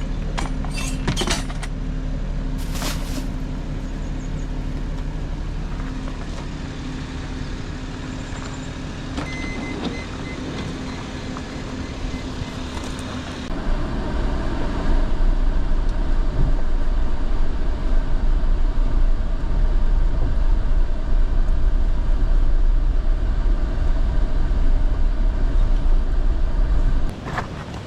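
A car running, with a steady engine hum and a few clicks and rattles in the first seconds. About halfway through, a louder, even rush of road noise sets in, and it drops off just before the end.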